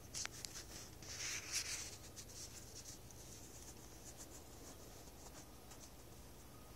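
Faint scratching and rustling with scattered clicks, loudest in the first two seconds, over a steady low hum.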